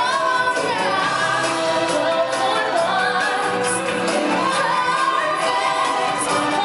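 Music with a group of voices singing together, a choir-like sung melody over continuous accompaniment.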